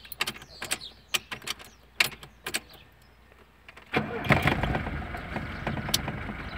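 A run of sharp clicks, as from the ignition key and switches, then about four seconds in the VAZ car's engine starts suddenly and keeps running steadily.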